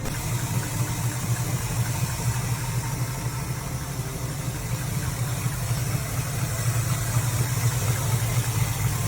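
Car engine idling steadily, a constant low hum with a hiss over it.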